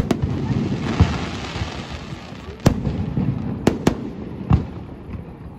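Aerial firework shells bursting overhead: about half a dozen sharp bangs at uneven intervals, with a crackling rush of noise between them that fades toward the end.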